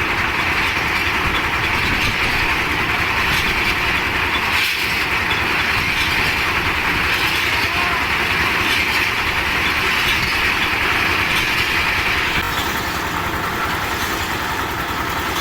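Engine of a concrete mixer machine running steadily and loudly; a higher part of the sound falls away about twelve seconds in.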